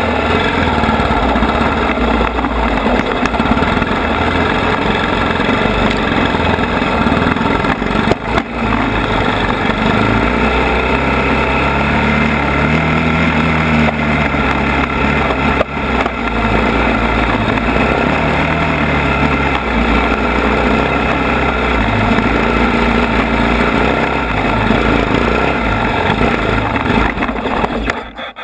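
ATV engine running continuously on a rough trail, its pitch rising and falling with the throttle, with a couple of sharp knocks about a third and halfway through. The sound drops off sharply just at the end.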